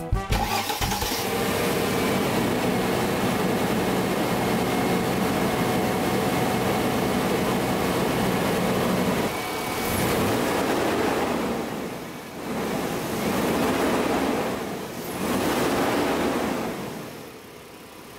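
Mercedes ML430's 4.3-litre V8 running steadily, then revved up and let fall back three times in the second half. The intake vacuum leaks have just been sealed, and the engine is running with almost no vibration.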